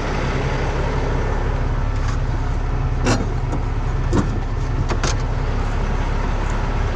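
Heavy diesel truck engine idling steadily, with five or six sharp metallic clinks of hand tools spread through the middle of the stretch, as a ratchet is set to the drive shaft bolts.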